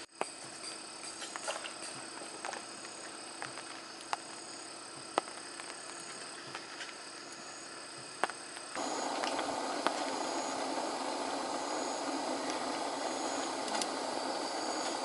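Insects chirring in a summer forest, thin high steady trills, with a few light clicks and taps. About nine seconds in, a steady rushing hiss starts abruptly and carries on under the insects.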